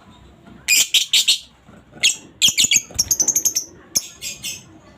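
Female lovebird calling in shrill, harsh chirps in several quick clusters, with a fast run of notes a little past the middle: the chattering 'ngekek' call.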